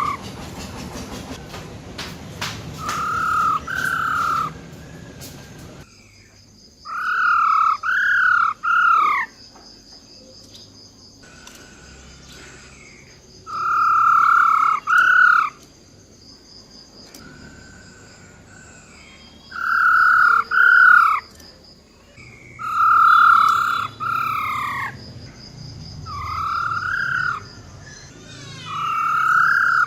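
Female black-throated laughingthrush giving its rolling 'ro ro' calls, loud bursts of two to four downward-sliding notes repeated every few seconds. This female call is the one used to rouse male laughingthrushes to sing.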